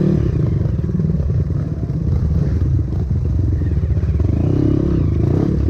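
Trail motorcycle engine running steadily under way, its pitch wavering a little with the throttle.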